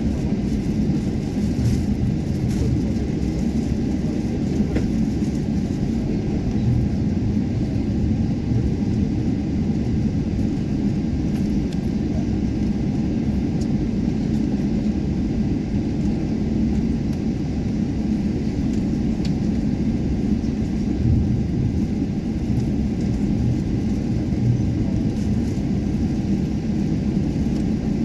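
Steady low rumble inside the cabin of a Boeing 777-300 taxiing, the engines turning at low thrust with a faint steady hum beneath the noise.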